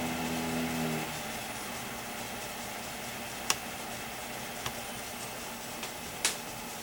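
A low machine hum with several steady tones cuts off about a second in, leaving a steady hiss broken by four sharp clicks.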